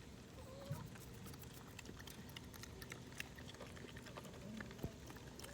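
Piglets eating: faint, scattered clicks of chewing and nosing through their feed, with a couple of short, soft low grunts.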